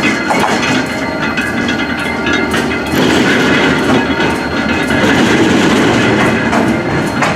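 Train moving on the rails close by, a steady rumble with irregular clacks and knocks from the wheels.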